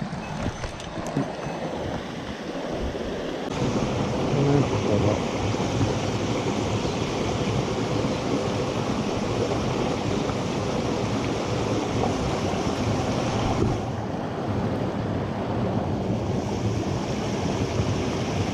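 Rushing water of a mountain stream, a steady roar that grows louder and fuller about three and a half seconds in and eases for a couple of seconds near the end.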